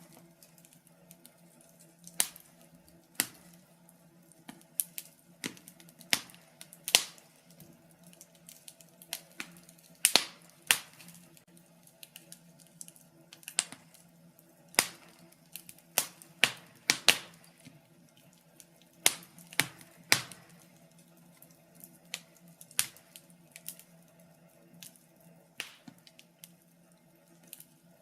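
Wood fire in a fireplace crackling, with irregular sharp pops and snaps, sometimes two or three close together, over a faint steady hum.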